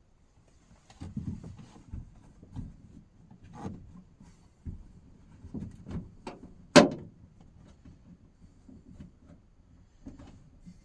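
Things being handled in a small enclosed space: a string of irregular knocks, bumps and rustles, with one sharp click a little past the middle, like a door or drawer being worked.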